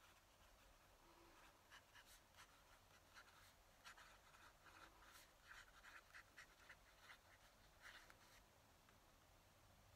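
Faint scratching of a fountain pen nib on paper in short, quick strokes, which stop shortly before the end.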